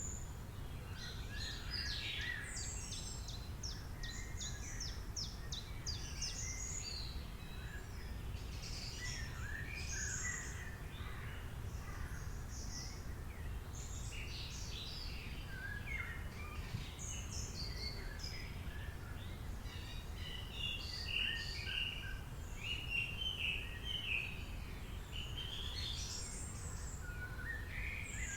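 Several birds chirping and singing at once, with quick trills, short rapid chirp runs and rising and falling whistles overlapping all through, over a steady low background rumble.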